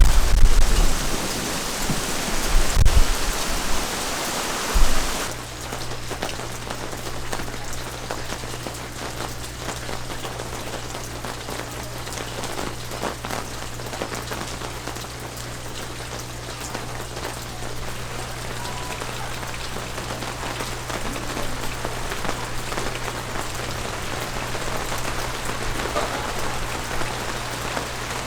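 Rain falling and pattering on a surface, with many fine drop ticks. The first few seconds are louder, with low rumbles. About five seconds in the sound changes abruptly to steadier, quieter rain over a steady low hum.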